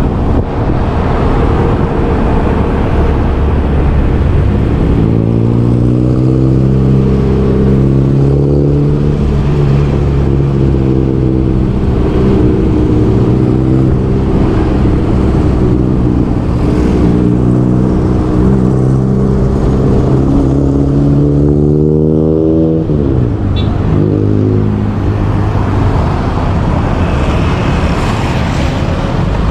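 Motorbike engine running under way, with road and wind noise. The engine note climbs as the bike speeds up and then holds fairly steady. A little over twenty seconds in it drops sharply as the throttle is closed, then picks up again.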